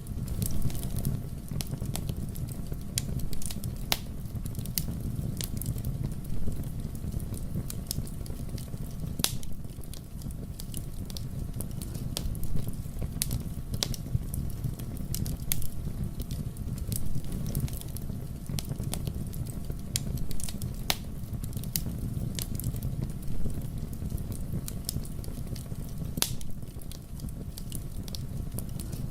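Wood fire burning in a fireplace: a steady low rumble of the flames with frequent sharp, irregular crackles and pops of the burning wood.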